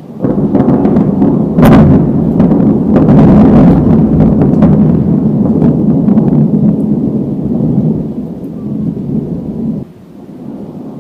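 Thunder: a loud rolling rumble with a sharp crack about two seconds in and another a second later, over rain. The rumble eases and drops off suddenly near the end, leaving quieter rain.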